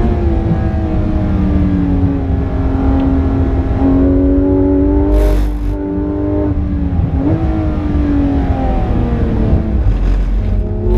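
Porsche 991.2 GT3 RS's naturally aspirated flat-six engine at speed on a wet lap, heard from inside the car: the engine note sags and climbs with the throttle and jumps up quickly about seven seconds in. A short rush of noise cuts in about five seconds in.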